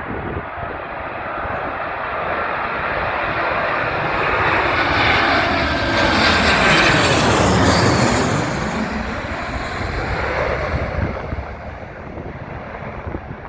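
Landing airliner passing close overhead: the engine noise swells to a peak about seven seconds in, with a whooshing sweep down in pitch as it goes by, then fades away. Wind buffets the microphone throughout.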